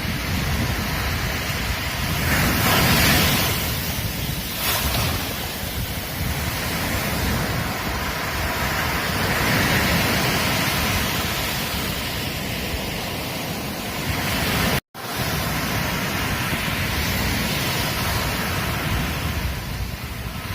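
Ocean surf washing onto a beach: a steady rush of water with waves swelling louder twice. About fifteen seconds in, the sound cuts out completely for an instant, then resumes.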